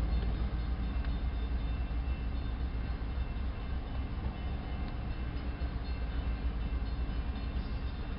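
BNSF autorack freight train rolling by, a steady low rumble.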